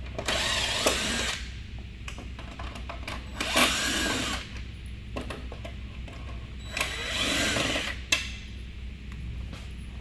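Cordless drill/driver run in three short bursts of about a second each, each spinning up and winding down, while backing out the screws that hold a truck's parking light, with a few sharp clicks between the bursts.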